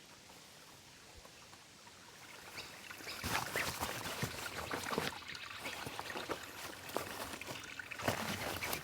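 Rustling and light knocking of camping gear being handled during tent setup. It starts about three seconds in after a quiet stretch, as a dense run of irregular clicks and rustles.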